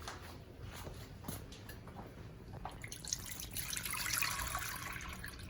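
Milk being poured into a measuring container: a few small knocks, then a steady pouring splash from about three seconds in that stops about two seconds later.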